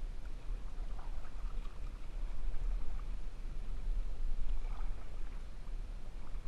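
Kayak paddling on a river: faint water sounds from the paddle strokes a few times, over a steady low rumble.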